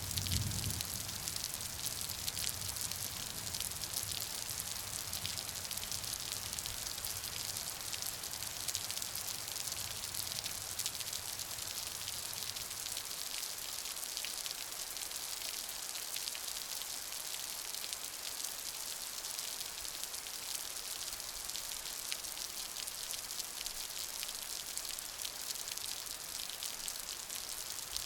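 Steady rain falling, an even dense patter of drops. A low rumble at the start dies away by about halfway through.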